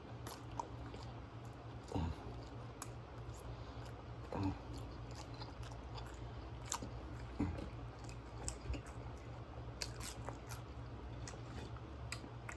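Close-up chewing of a bite of toasted grilled cheese Spam sandwich: soft wet mouth sounds with scattered short clicks and smacks.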